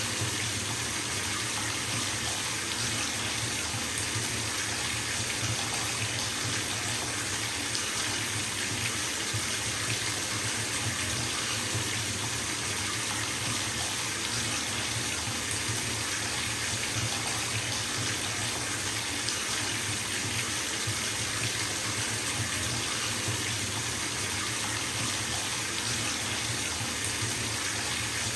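Water running steadily from a bathtub tap into the tub as it fills, an even, unchanging hiss.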